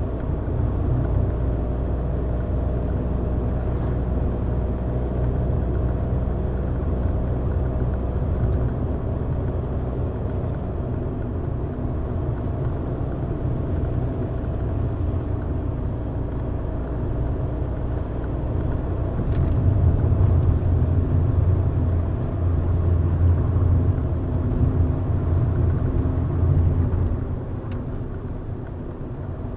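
A car driving along a road: a steady low rumble of engine and tyres on the road surface. It grows louder about two-thirds of the way through, then eases near the end.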